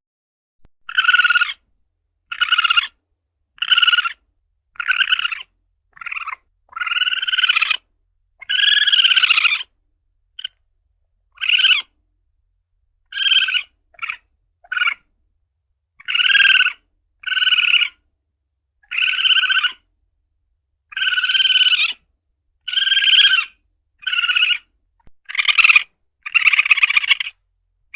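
Asian palm civet (luwak) calling: a run of short pitched calls, about one every second or two, some held longer, with silence between them.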